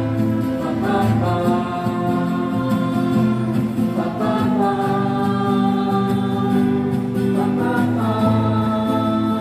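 Amplified group singing of long held notes with acoustic guitar accompaniment.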